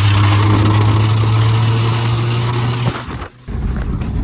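Engine of a 1995 Mazda with a swapped-in Ford motor, held at steady high revs. About three seconds in the sound drops out for a moment, then the engine picks up again.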